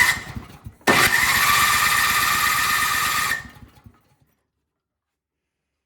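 Craftsman snowblower's electric starter cranking the engine on a shot of starting fluid: a short burst, then about two and a half seconds of cranking with a steady high whine, winding down without the engine catching.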